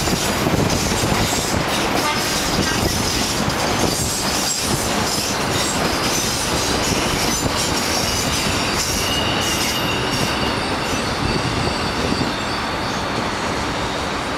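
Iarnród Éireann passenger train running over the bridge and into the station, a steady rumble of wheels on rails, with a brief high wheel squeal about nine seconds in.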